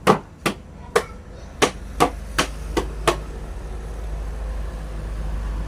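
Hammer blows on wood, about two a second, stopping about three seconds in. A low steady hum then rises in its place.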